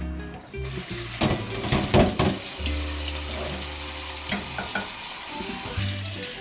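Steady hissing kitchen noise, with a few knocks in the first half, under background music.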